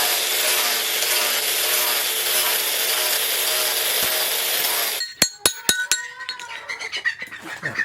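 A power tool running steadily on steel, cutting off suddenly about five seconds in. Several sharp metal strikes with ringing tones follow.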